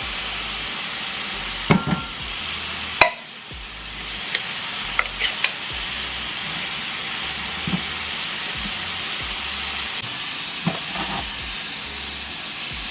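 Ground beef sizzling steadily as it browns in a frying pan, with scattered clicks and knocks of kitchen utensils and cans; one sharp knock about three seconds in, after which the sizzle briefly dips.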